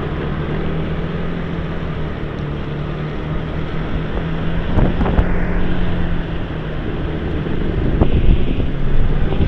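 Motorbike engine running at a steady speed while riding, with wind rushing over the microphone and road noise. A few brief louder bursts of traffic about halfway through and near the end.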